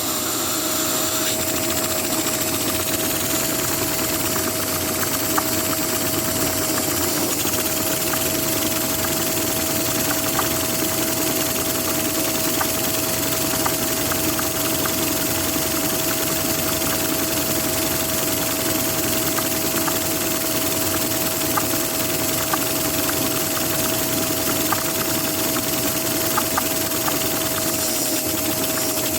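Vacuum cleaner running steadily to power a Lego vacuum engine, a constant whine over a steady rushing noise, with faint scattered ticks from the moving Lego parts.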